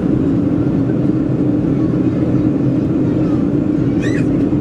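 Steady roar of a Boeing 737-400's cabin in descent, engine and airflow noise with a strong steady low hum. About four seconds in comes a brief high-pitched sound.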